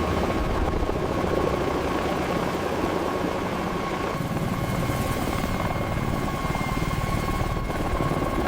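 Mi-24 Hind attack helicopter running in flight: rapid, steady rotor chop under a steady high turbine whine.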